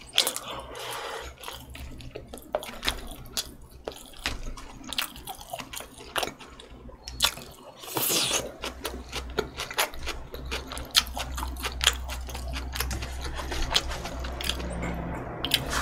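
A person chewing food close to the microphone: a dense run of small wet mouth clicks and smacks, with a brief louder hiss about halfway through.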